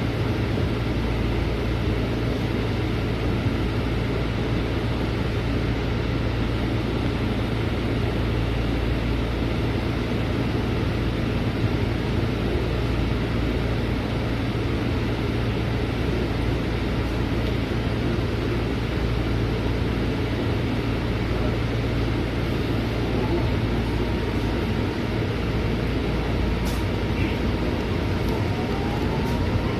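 Scania city bus heard from inside the cabin while under way: a steady engine drone and road noise, with faint rising whines late on.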